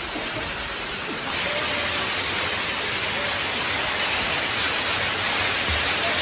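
Waterfall rushing: a steady roar of falling water that gets louder and brighter about a second in.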